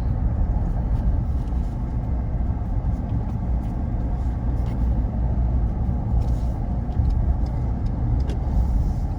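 Ford Ranger PX3 ute driving at road speed: a steady low rumble of engine and tyre noise.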